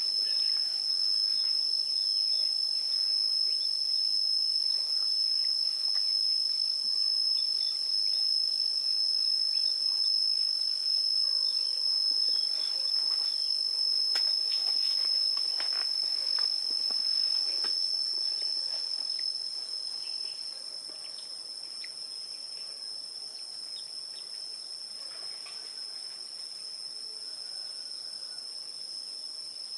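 A steady, high-pitched insect chorus, crickets trilling without pause, with faint scattered ticks underneath. It grows quieter about two-thirds of the way through.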